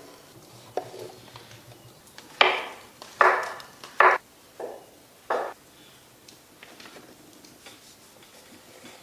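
Cooking utensils working food: about five short, noisy scraping strokes in quick succession in the middle of an otherwise quiet stretch, the first three the loudest.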